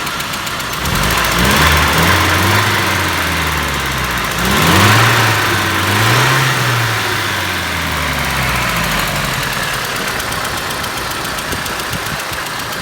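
ZMZ-406 inline-four engine running with a knock, revved a few times in the first half and then settling back to idle. The knock remains after a new timing kit and new hydraulic lifters, and it comes and goes.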